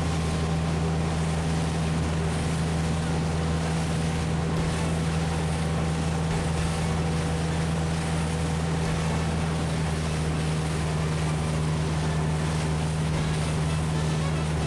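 A boat's engine running at a steady speed: a constant low hum over a continuous rush of noise.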